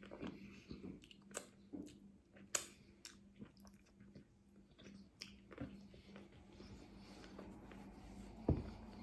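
Close-up chewing of a crunchy hard-shell taco, with sharp crunches and wet mouth clicks scattered irregularly throughout. A single low thump sounds near the end.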